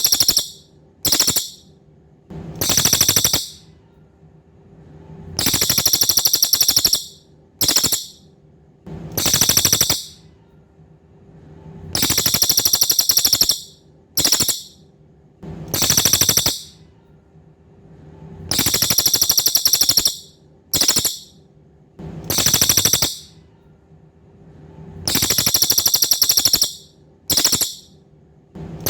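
Cililin songbird singing: high, rapid buzzy trills in phrases of a long trill, a short one and a medium one, the phrase repeating about every six and a half seconds over a faint steady hum.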